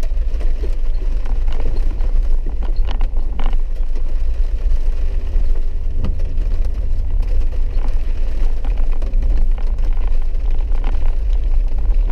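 Four-wheel-drive vehicle heard from inside the cabin, driving a rough dirt road: a steady low engine and road rumble with scattered knocks and rattles from bumps.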